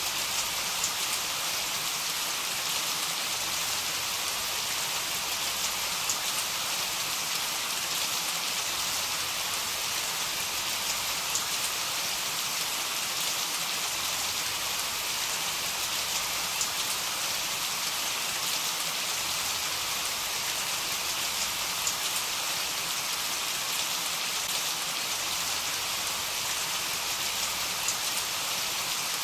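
Steady heavy rain, an even hiss with scattered drops pattering on a surface.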